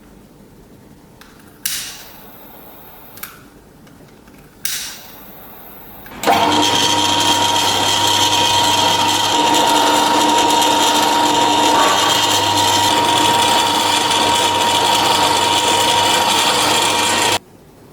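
Three sharp knocks, then an electric power tool runs steadily with a constant high motor whine for about eleven seconds and cuts off abruptly.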